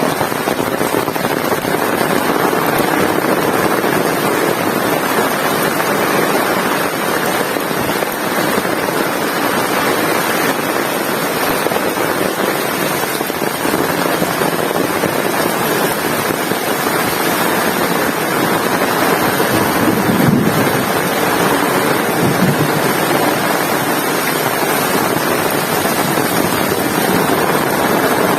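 Heavy rain falling, a loud, steady hiss, with a brief low rumble about twenty seconds in.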